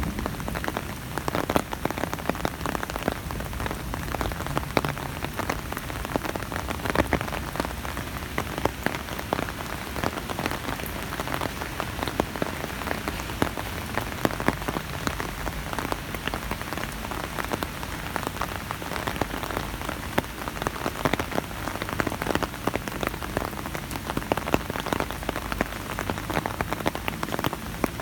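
Rain drumming on an umbrella overhead: a steady patter of many close, sharp drop hits on the canopy over a constant hiss of rainfall.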